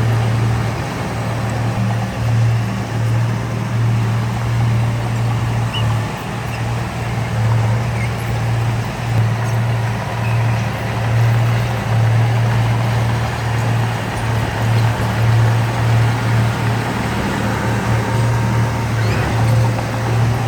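Heavy diesel engine of earthmoving machinery running steadily under load, a deep continuous hum over a rumbling noise.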